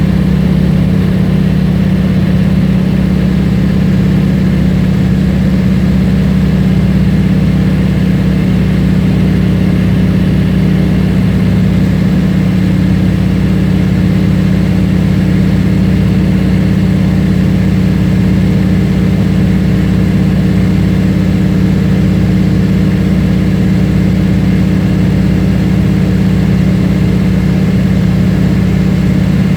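Floatplane's piston engine running steadily at a constant pitch, a loud unchanging hum throughout.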